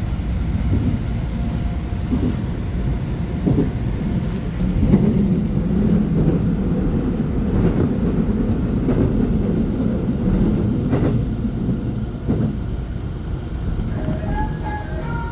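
Train running on rails: a steady low rumble with occasional sharp clicks from the wheels. A short melody of chime-like notes begins near the end.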